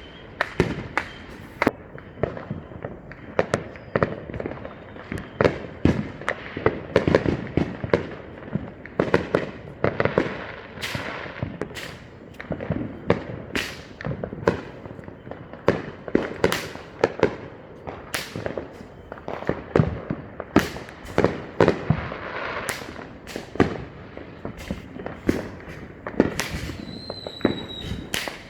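Neighborhood consumer fireworks going off nonstop: a dense, overlapping run of sharp bangs, booms and pops. A brief high whistle sounds near the end.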